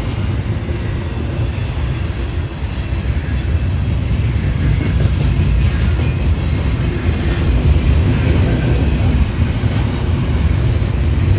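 A train rolling past, with a steady low rumble and faint clicking from the wheels on the rails.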